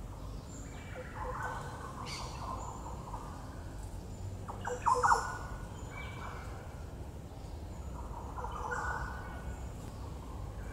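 Wild birds calling: overlapping chirps and whistles, with two loud sharp notes about five seconds in.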